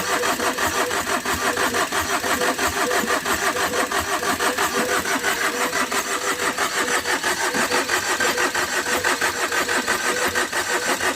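Tata Vista engine cranking on its starter motor without catching: a long, steady, rapidly pulsing crank that never fires. The owner takes the failure to start for lost compression from a blown head gasket, with gas pushing out through the cooling system.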